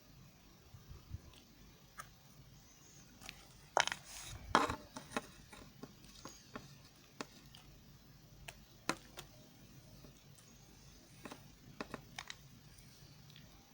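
Knife cutting soft white soap: scattered light clicks and taps, with two louder crisp cuts about four seconds in.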